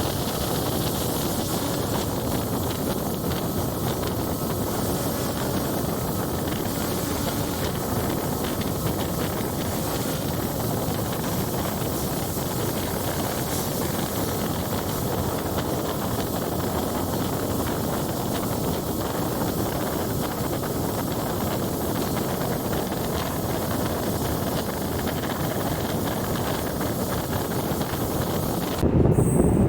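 A diesel multiple-unit train running, heard as a steady rushing noise with wind buffeting the microphone. About a second before the end it switches to a louder, lower rumble.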